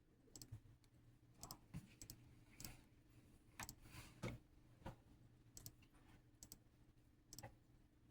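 Faint, irregular clicks and light knocks, about a dozen spread over several seconds, over a low steady hum.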